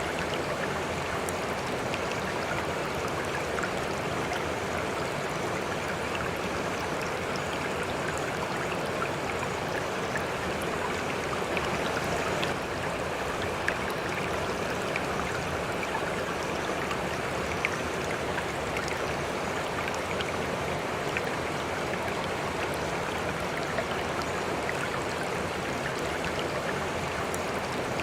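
River water flowing steadily: an even, constant rush with a few faint ticks.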